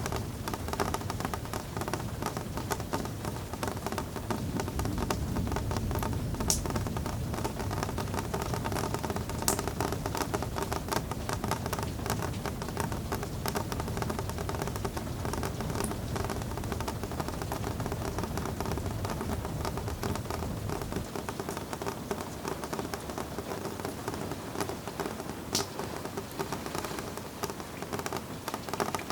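Steady rain pattering, dense with small drop taps and a few louder single taps. A low rumble underneath fades away about three-quarters of the way through.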